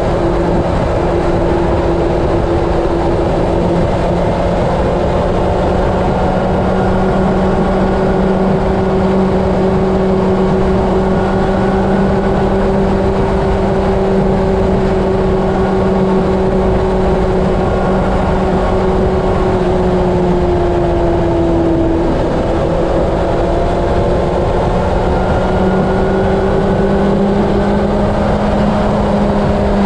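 Honda CB750 inline-four engine running at a steady highway cruise, its note sagging slightly about two-thirds of the way through, then picking up again. Heavy wind rush on the microphone runs underneath.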